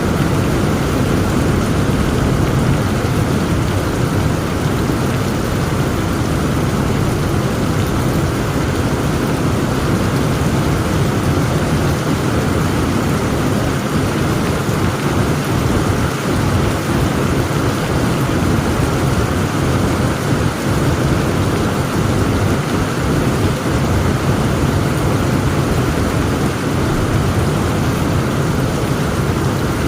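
Heavy thunderstorm: a steady downpour of rain with a constant low rumble underneath and no sharp thunderclap.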